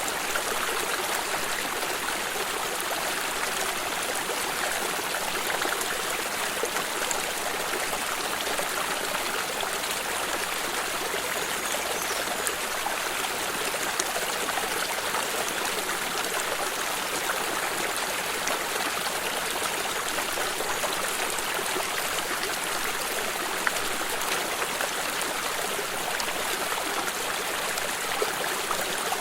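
Water stream running steadily over stones, a constant babbling rush with small trickles and splashes.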